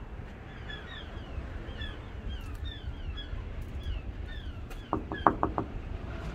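Small birds chirping over and over, quick high chirps that each drop in pitch, over a low rumble. About five seconds in comes a brief run of four or five loud, sharp sounds.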